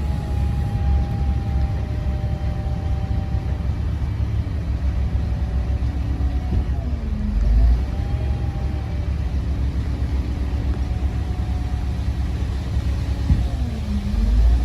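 Komatsu D58P bulldozer's diesel engine running steadily with a low rumble. Its pitch dips briefly and comes back up twice, about halfway through and again near the end.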